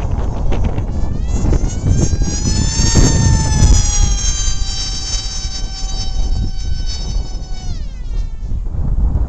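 Ritewing Lightning 36 RC flying wing passing: a high whine that rises in pitch, holds, then drops steeply about eight seconds in, over heavy wind noise on the microphone.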